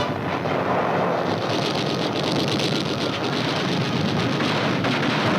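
A loud, dense, steady rushing noise with a fast flutter in its upper part through the middle.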